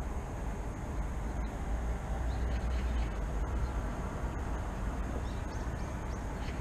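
City morning ambience: a steady low rumble of distant traffic, with a few faint, brief bird chirps over it.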